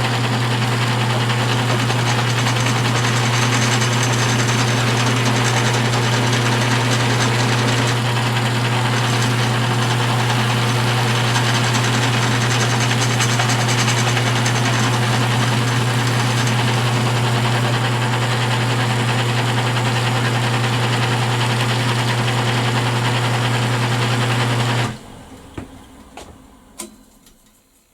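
Electric motor spinning a grooved wooden edge burnisher, running with a steady loud hum and friction hiss while a leather edge is burnished. It is switched off about 25 seconds in and winds down quickly, followed by a few faint clicks.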